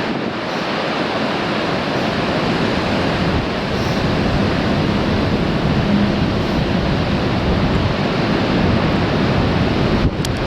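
Sea waves breaking and washing over a rocky shore in strong wind, a steady dense rush that swells slightly in the middle.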